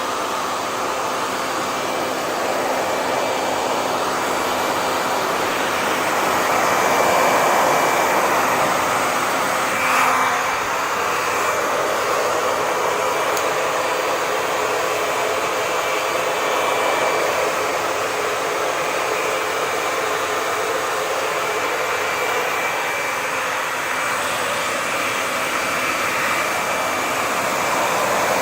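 Hair dryer running steadily: a continuous rush of air with a faint steady motor whine, swelling slightly about a quarter of the way in, with one brief blip about a third of the way through.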